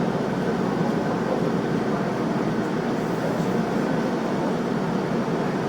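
Steady running noise of a Tobu Tojo Line commuter train heard from inside the carriage: wheels on rails and motors at an even, constant level.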